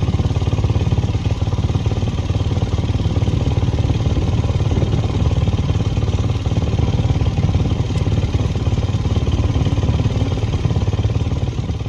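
A motor vehicle engine running steadily close by, held at even, low revs.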